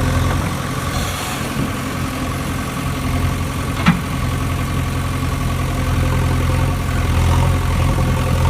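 An engine idling steadily, with one sharp click about four seconds in.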